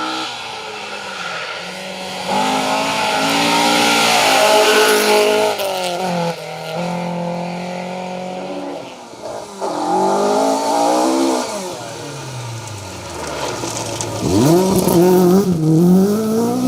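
Rally car engine revving hard, its pitch repeatedly rising and dropping with gear changes and lifts as the car passes. The sound fades about twelve seconds in, then a fresh burst of hard revving is the loudest part near the end.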